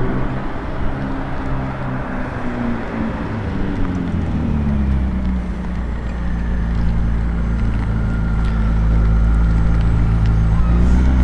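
McLaren 600LT's twin-turbo V8 with catless downpipes running at low speed. Its note rises and falls over the first few seconds, then settles into a steady low drone from about four seconds in that grows a little louder near the end.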